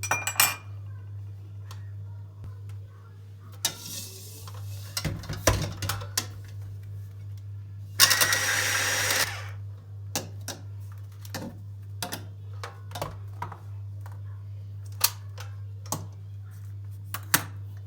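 Kitchen work sounds: scattered clicks and knocks of utensils and containers being handled, with a short noisy burst about four seconds in and a louder hissing burst lasting just over a second about eight seconds in, over a steady low hum.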